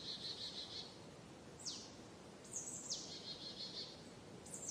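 Forest birds singing: high notes that slide quickly downward, each followed by a short buzzy trill, repeated several times over a faint, steady background hiss.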